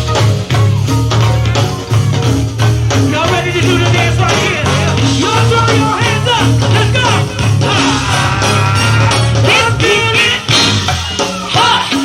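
Live go-go band music: a heavy, steady bass line under driving percussion, with a vocal line over it.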